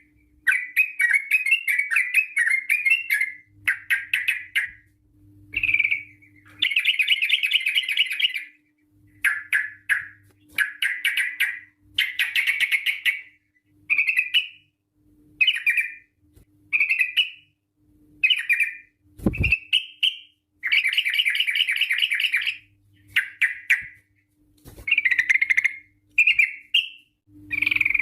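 Yellow-vented bulbul (trucukan) singing in bursts of rapid chattering notes, each phrase one to two seconds long with short pauses between. A faint low hum runs underneath, and there is a single low thump about two-thirds of the way through.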